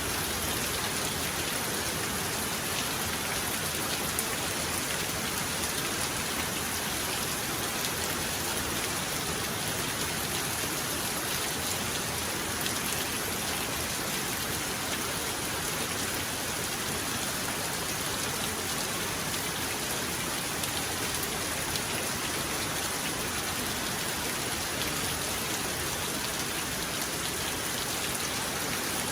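Heavy rain falling steadily, a dense even hiss of many drops striking surfaces, with no thunder heard.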